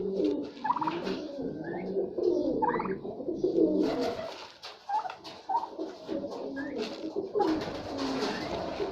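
A group of birds calling together: continual low cooing mixed with short higher chirps, with spells of rustling about halfway through and near the end.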